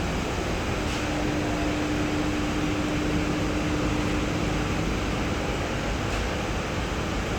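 Steady mechanical noise, with a low hum that holds from about a second in until about five and a half seconds.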